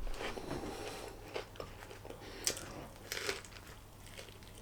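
Close-up chewing of a mouthful of spicy chicken wrap, with soft, irregular crunches.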